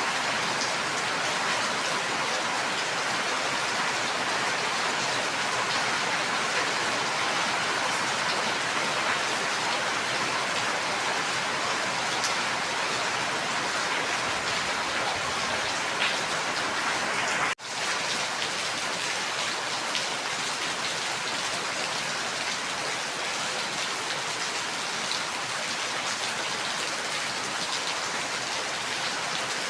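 Steady rain falling, a dense even hiss with individual drops pattering on a surface. A little past halfway the sound cuts out for a split second, then resumes unchanged.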